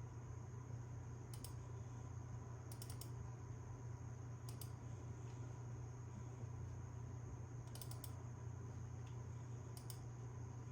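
Computer input device clicking: five sparse groups of sharp clicks, some in quick pairs or threes, over a steady low hum.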